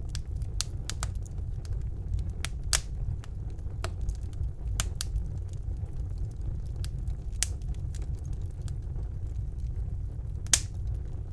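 Wood fire burning in a fireplace: a steady low rumble of the flames with irregular sharp crackles and pops, two louder pops about three seconds in and near the end.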